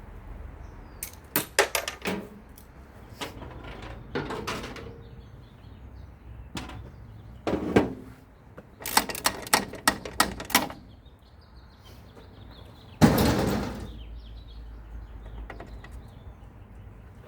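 Clanks and knocks of metal parts and hand tools on the old 1917 White truck's body as fittings are unbolted and removed. They come in short clusters, with a quick run of clicks about nine to ten seconds in and one louder, heavier knock about thirteen seconds in.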